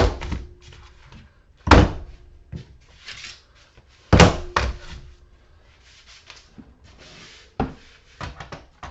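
Heavy fluorescent light ballasts dropped one by one onto scrap metal: three loud thuds about two seconds apart, each leaving a short metallic ring, then several lighter knocks near the end.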